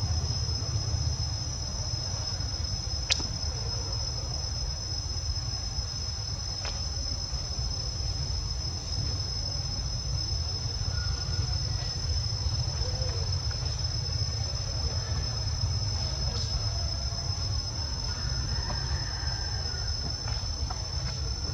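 Insects trilling steadily at a high pitch, with a steady low rumble underneath and one sharp click about three seconds in.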